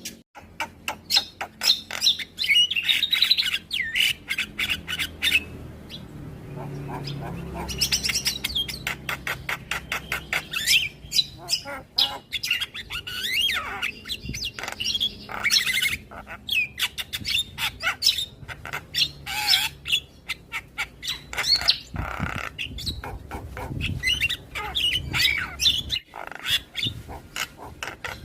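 Javan myna (jalak kebo) singing: a fast, continuous chatter of clicks, squawks and short whistled notes, with brief pauses.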